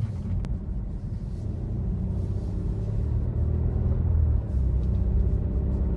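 BMW F30 330i's turbocharged four-cylinder engine with an Aura ARP aftermarket exhaust, a deep steady drone while driving, growing slowly louder.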